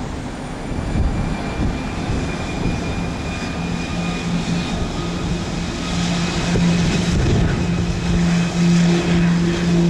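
Short 360-300 twin turboprop's engines and propellers droning, a low pulsing propeller hum over a rushing noise and a faint high turbine whine, growing louder after about six seconds.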